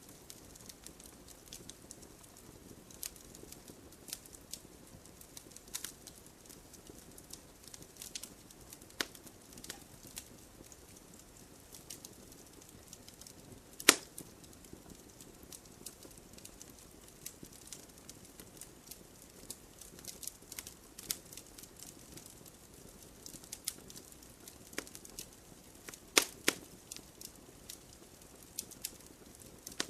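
Campfire wood burning, crackling and popping in irregular sharp snaps over a soft, low hiss of flame. One loud pop comes about halfway through, and a few strong pops come near the end.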